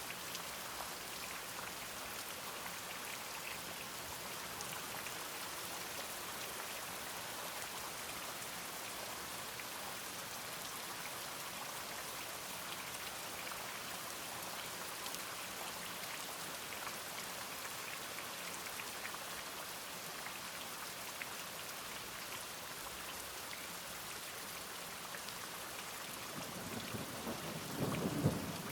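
Steady rain falling, an even hiss of drops. Near the end a low rumble of thunder starts to build.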